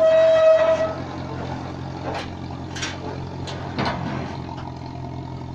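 Engine running steadily, with a brief held high tone in the first second and several short hissing sounds after.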